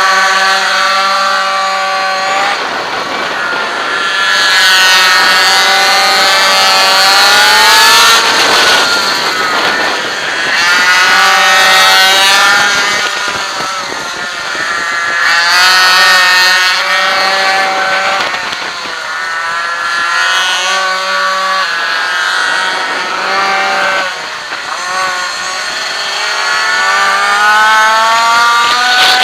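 Two-stroke minimoto (pocket bike) engine racing, heard from on board the bike. It revs up high and drops away again over and over, every few seconds, as the throttle is opened and shut between corners.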